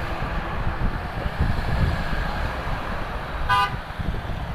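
Low engine rumble of trucks passing in a convoy, with one short horn toot about three and a half seconds in.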